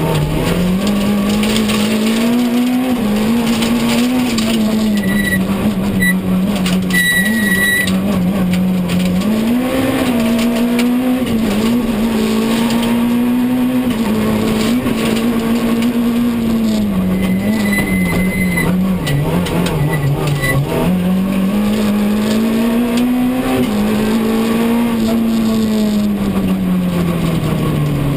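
Citroën C2 R2 rally car's 1.6-litre four-cylinder engine at full stage pace, heard from inside the cabin: the engine note repeatedly climbs, holds and dips as the driver accelerates, lifts and shifts gears.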